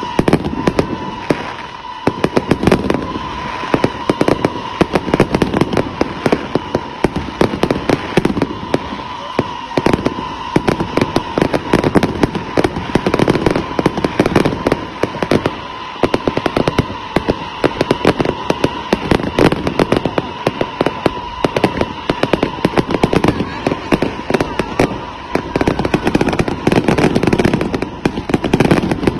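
Fireworks display: a dense, continuous run of bangs and crackles, swelling into heavier clusters of bursts every few seconds.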